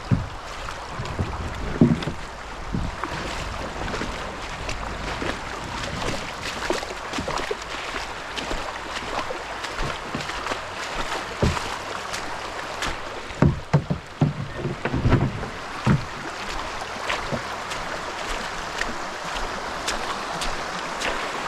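Creek water running steadily around a kayak, with scattered low knocks and splashes, most of them clustered about two-thirds of the way through.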